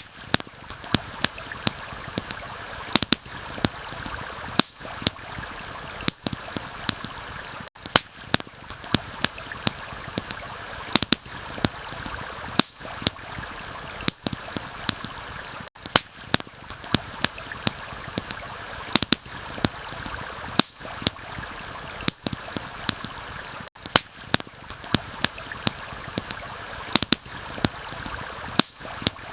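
Campfire crackling with irregular sharp pops and snaps over a steady rush of running water, with brief dips in the sound about every eight seconds.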